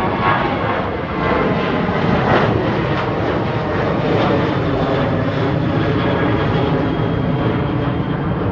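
Departing aircraft's engines at high power: a loud, steady engine noise with a faint high whine.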